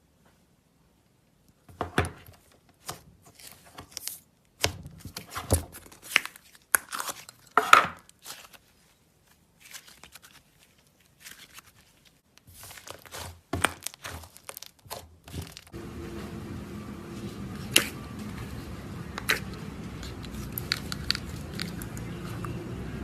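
Slime being squeezed and poked by hand, giving sharp, irregular crackles and pops. About two-thirds of the way through, a steady low hum comes in under a few more scattered pops.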